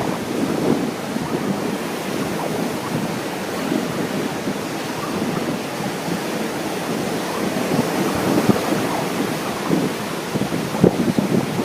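Ocean surf breaking steadily, with wind gusting across the microphone in irregular buffets, a few sharper gusts near the end.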